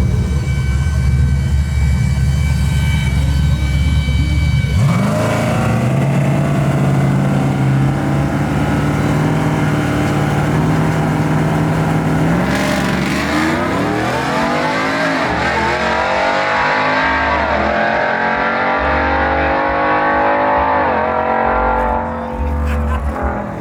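Truck engine revving hard in a burnout: held at a steady high pitch for about five seconds, then drops and climbs again in several long rising and falling revs through the second half.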